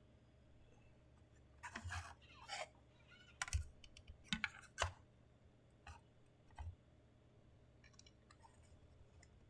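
Small plastic parts clicking and packaging rustling as an anime figure is unpacked and handled by hand: irregular light clicks and short crinkles, busiest in the first half.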